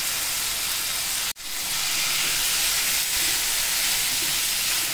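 Blanched baby corn, mushrooms and mixed vegetables sizzling in hot oil in a wok, a steady hiss that cuts out for an instant about a second in.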